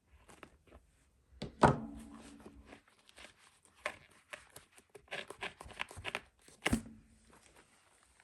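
Leather laces being worked out of a baseball glove, with the glove handled on a bench: scattered clicks, rubs and scrapes. Two sharp knocks, each followed by a brief ring, the louder about a second and a half in and the other near the end.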